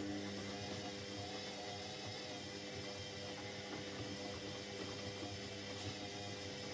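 Indesit 71252 washing machine running: a steady electric hum of several pitches over an even hiss.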